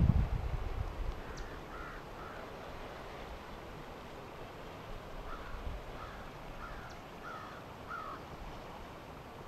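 Distant birds calling: a couple of short calls about two seconds in, then a run of five or six more from about five to eight seconds, over a faint steady outdoor hiss. A low rumble on the microphone fades out in the first second.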